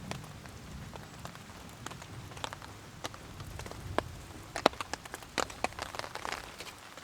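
Rain falling in scattered heavy drops, each landing with a sharp tap, over a low rumble of distant thunder that fades out about five seconds in.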